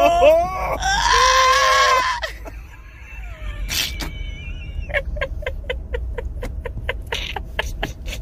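A man laughing hard: a long, high, shrieking laugh about a second in, then a run of short breathy laugh pulses at about three a second through the second half.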